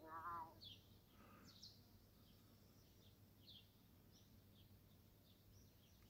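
Faint bird chirps: short, high, falling notes repeated about once a second, over a steady low hum. A short wavering cry, the loudest sound, comes right at the start.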